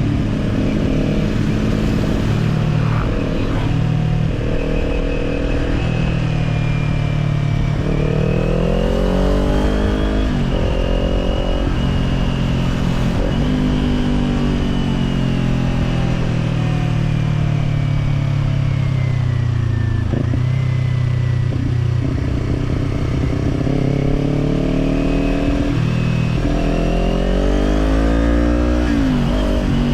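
Kawasaki Z400 parallel-twin engine through an Orion Katya slip-on exhaust, the bike under way with the revs climbing and dropping several times, over steady wind rush.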